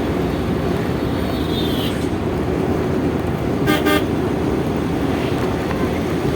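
Steady road and engine noise from a car moving along a highway, with one short vehicle horn toot a little under four seconds in.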